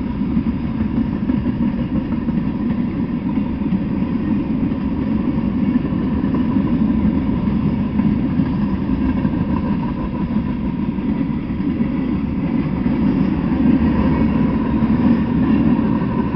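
Freight train cars rolling past at speed: a steady, dense rumble of steel wheels on the rails.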